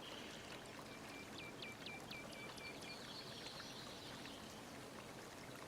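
Faint steady background hiss, with a quick run of about seven short, high chirps from a small bird about a second and a half in.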